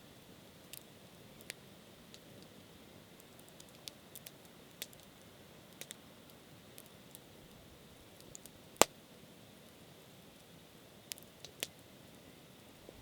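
Scattered sharp clicks and ticks over a faint steady hiss, with one much louder click about nine seconds in.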